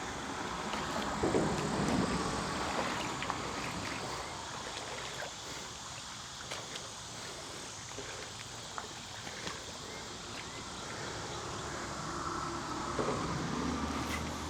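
Shallow creek water splashing and sloshing around legs as someone wades, with a couple of louder sloshes about a second in and near the end, over steady wind and running water.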